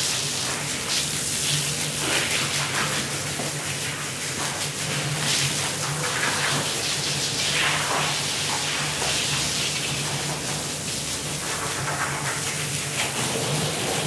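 Water spraying and splashing onto a wet rug during washing, a continuous hiss that swells and fades as the spray is swept across, over a steady low motor hum.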